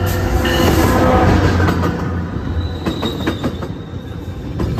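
Metrolink EMD F59PHR diesel locomotive, with its twelve-cylinder EMD 710 engine, passing close by at low speed as the train pulls in, loudest in the first second and a half. Then the bilevel coaches roll past with wheel clicks on the rail and a thin, high, steady brake squeal from about three seconds in as the train slows to stop.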